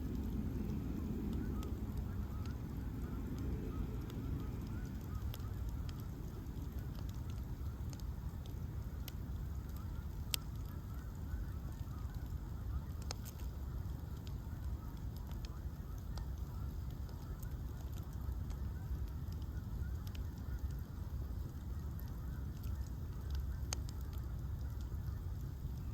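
Bonfire of ash logs burning with a steady low rumble and scattered sharp crackles and pops. Faint wavering high tones come and go through the first half.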